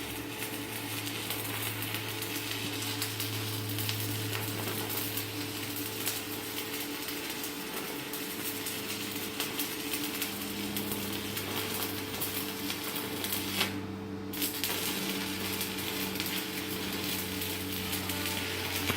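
Stick-welding arc from a Chinshui 160ARC inverter welder burning a 4.0 mm electrode: a steady crackle and sizzle over a low steady hum. The crackle breaks off for under a second about 14 seconds in, then picks up again.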